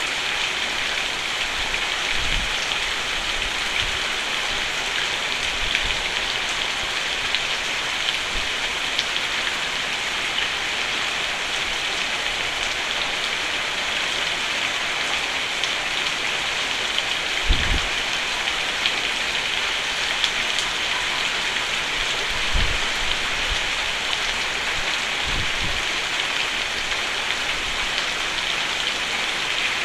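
Rain falling steadily on a roof, an even hiss of drops. A few brief low thumps come through it, the strongest a little past halfway.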